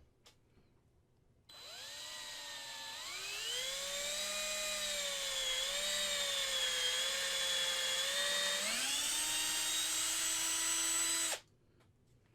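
Small electric hobby drill running for about ten seconds while drilling a pin hole in a resin model part. Its motor whine rises in pitch twice as it speeds up, wavers slightly under load, then cuts off suddenly.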